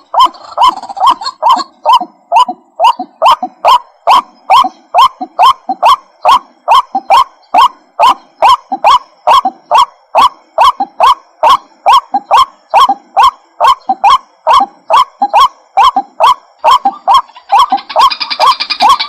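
White-breasted waterhen calling: a long run of short, loud, evenly repeated notes, about two to three a second. A second, higher-pitched calling sound joins near the end.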